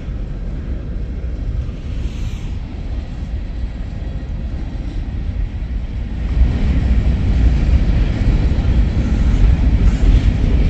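Freight train rolling past: a steady low rumble that grows louder about six seconds in.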